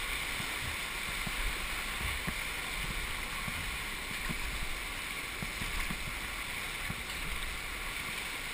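Steady rush of river whitewater around a raft.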